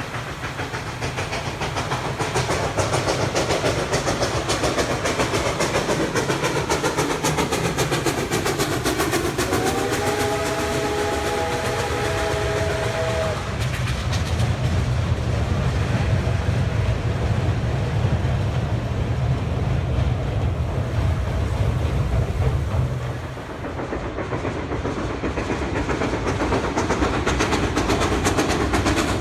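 Duluth & Northeastern No. 28, a 1906 ALCO 2-8-0 steam locomotive, under way with its train with a steady rumble and clatter from the wheels on the rails. About ten seconds in its steam whistle sounds one long blast of several notes at once, lasting about four seconds.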